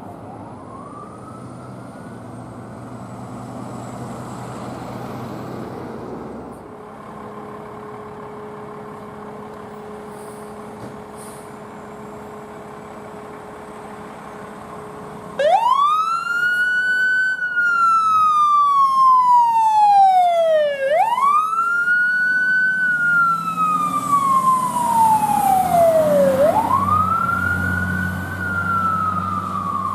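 Emergency vehicle siren in wail mode, starting loudly about halfway through. It makes three slow cycles, each a quick rise in pitch followed by a long fall, over road-traffic noise. A heavy vehicle's low engine rumble comes in near the end.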